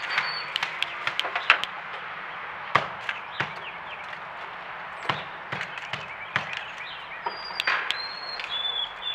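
Irregular sharp taps and knocks, like birds pecking at a feeder, over a steady hiss. In the last couple of seconds a white-throated sparrow sings clear, pure whistled notes, each a step lower than the one before.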